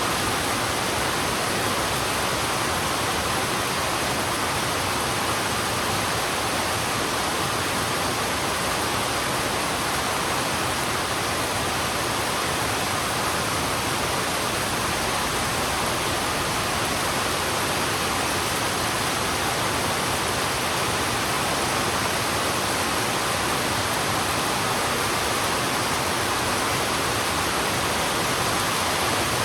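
Heavy rain falling steadily on a road: an even, unbroken hiss.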